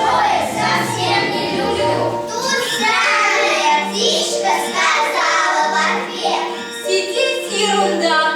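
Children singing a song with instrumental accompaniment, held bass notes under the melody.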